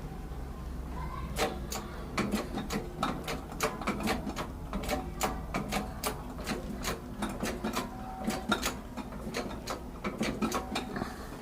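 Metal brake caliper parts handled and fitted together by hand on a workbench: a fast, irregular run of metallic clicks, taps and clinks, some with a brief ring, starting about a second in and stopping near the end.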